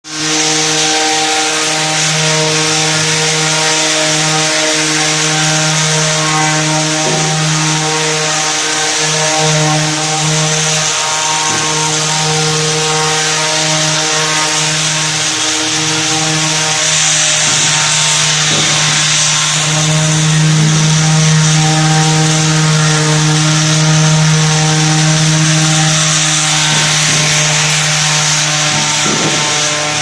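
Bosch electric sander running steadily on wood, a motor hum under a scratchy, hissing rasp of abrasive on the surface.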